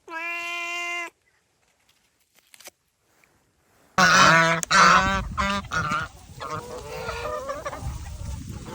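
Geese honking: a loud burst of several overlapping calls starts about four seconds in and carries on more quietly. Near the start there is a single steady pitched tone lasting about a second.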